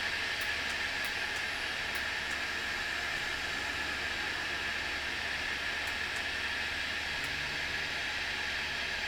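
Battery-powered table fan running steadily: an even rush of air with a faint motor hum beneath it.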